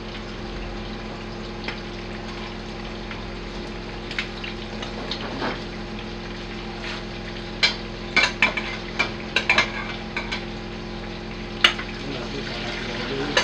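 Pieces of chicken sizzling as they fry in oil in a metal pan. Partway through, a metal spoon clicks and scrapes against the pan several times as the pieces are turned, with one sharp knock near the end.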